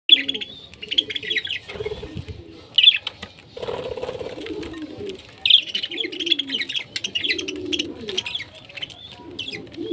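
Pet parrots chirping in quick repeated clusters, with low cooing calls underneath.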